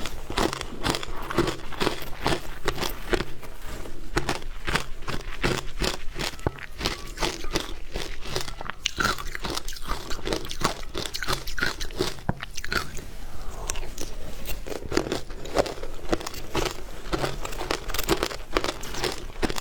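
Close-miked biting and chewing of frozen matcha ice, with rapid crunches following one another closely throughout.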